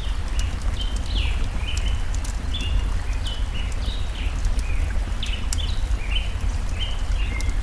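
Mixed stream and campfire ambience: steady rushing water with a low rumble, a wood fire crackling with sharp pops, and a bird calling short chirps over and over, about twice a second.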